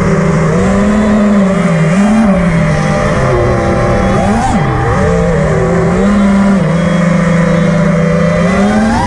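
Loud motor whine with a pitch that rises and falls with the throttle. It surges and drops sharply about halfway through and climbs again near the end.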